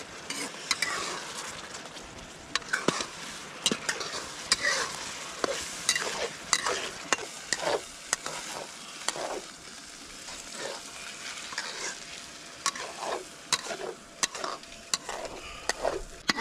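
Rice stir-frying in a steel wok: a steady sizzle, with a metal ladle stirring and scraping the pan in frequent, irregular clinks. The rice is drying out and starting to stick to the wok.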